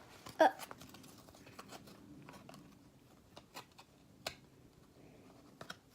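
Hockey trading cards and foil pack wrappers being handled and flipped through: scattered small clicks and rustles, the loudest about half a second in.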